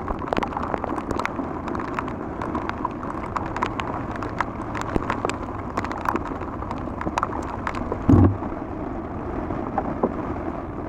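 Rain falling steadily, with many sharp drop clicks against the microphone, and one heavy low thump about eight seconds in.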